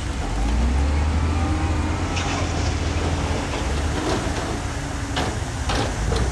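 Heavy diesel earthmoving machinery running steadily with a deep engine hum, with several short sharp knocks about two, four and five seconds in.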